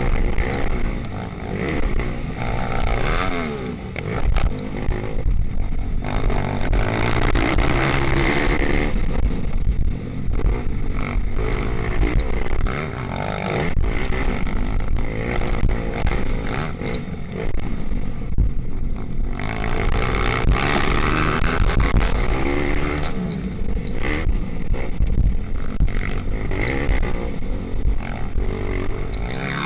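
Racing pit bike engines revving hard and easing off again and again, their pitch climbing and dropping through the gears.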